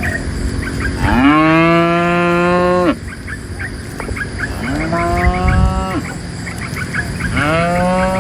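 Cattle mooing: three long, low moos, the first about a second in and the loudest, lasting nearly two seconds, the second shorter, the third beginning near the end.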